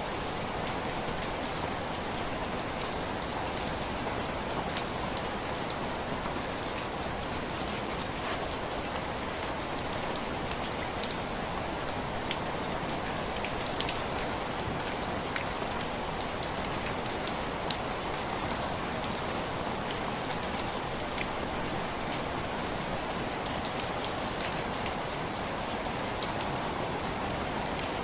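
Steady rain beating on window glass: an even hiss of rainfall with many scattered sharp taps of single drops striking the pane, a couple of them louder.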